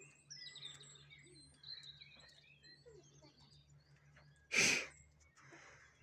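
Small birds chirping and twittering faintly in the background, with one short, loud breathy puff about four and a half seconds in.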